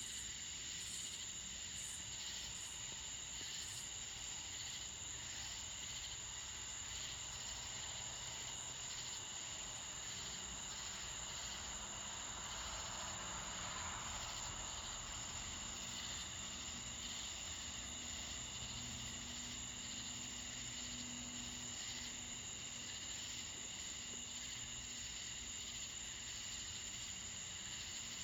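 Steady high-pitched chorus of crickets or similar night insects trilling continuously, with a soft rushing swell about halfway through.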